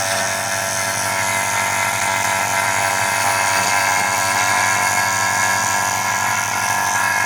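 Refrigeration vacuum pump running steadily while it pulls a vacuum on a refrigerator's sealed system to draw out moisture. The sound cuts off suddenly at the very end.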